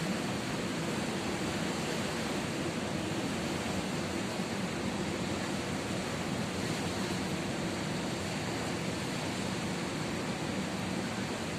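Steady roar of ocean surf, an even wash of noise with no distinct breaking waves.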